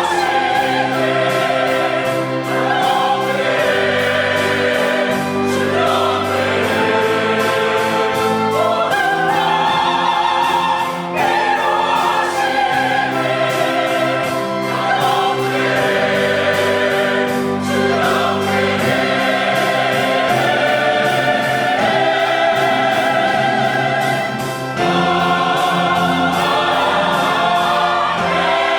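Church choir singing a hymn in Korean with a small chamber orchestra, piano and organ, with a steady drum beat.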